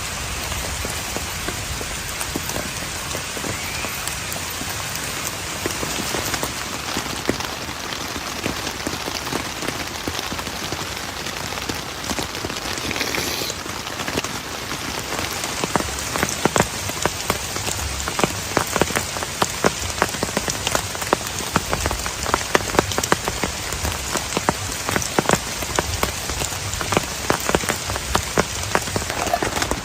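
Steady heavy rain falling, joined about halfway through by many sharp, louder drops striking a surface close by.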